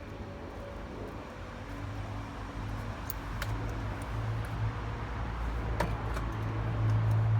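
Low, steady engine-like rumble that grows steadily louder, with a few light clicks and taps over it.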